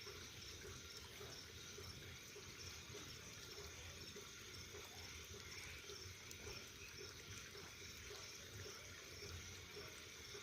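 Faint, steady hiss of a bonfire burning, with a few light crackles.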